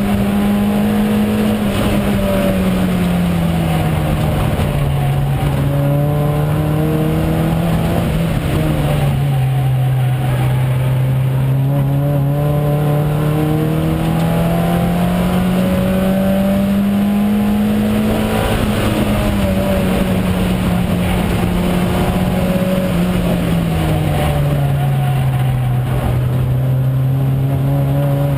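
VW Jetta race car's engine heard from inside the stripped cabin, running loud and steady over road and wind rush. Its pitch sinks slowly over a few seconds, climbs back gradually, sinks again after the middle and begins to climb near the end.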